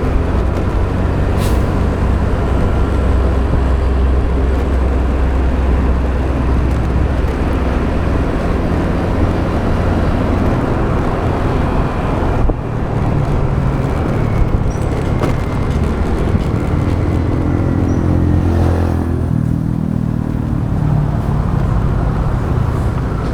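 Motorbike riding in road traffic: steady engine and wind and road noise. About two-thirds of the way through, an engine note rises and falls for a few seconds.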